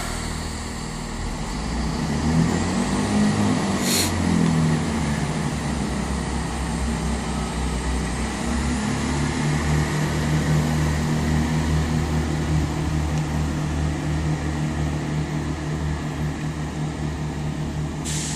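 Class 166 Turbo diesel multiple unit pulling out of the station, its diesel engines revving up with a steady drone and then holding a steady note. A single sharp knock is heard about four seconds in.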